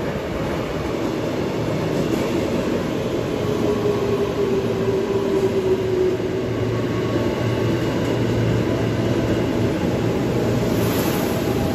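KRL Commuterline electric train running: a steady rumble and hum with a tone that drifts slightly lower in pitch around the middle.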